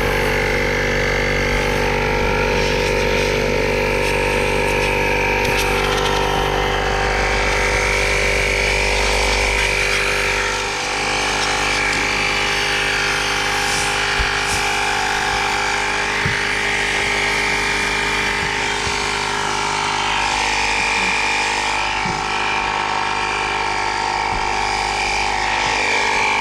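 Electric air compressor running steadily, a loud motor hum with a steady whine over it, used to blow dirt out of an RV air conditioner. Its pitch dips briefly about eleven seconds in.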